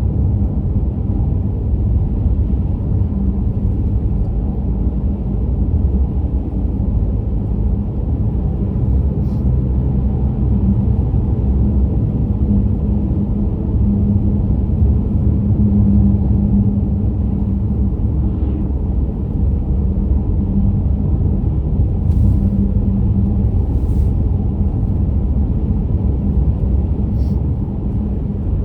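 Steady low rumble of a car driving: tyre and road noise on snow- and ice-covered pavement, with a steady hum running under it.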